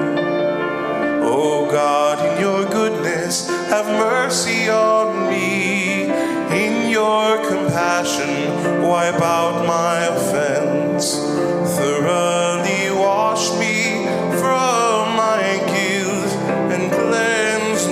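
Church music: singing with instrumental accompaniment, a steady passage with sustained held notes.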